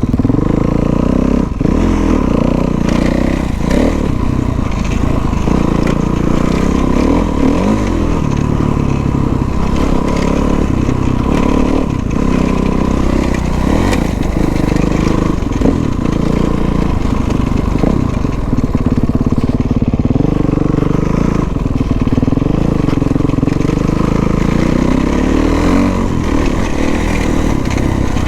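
Dirt bike engine running and revving as it is ridden off-road, its pitch rising and falling throughout.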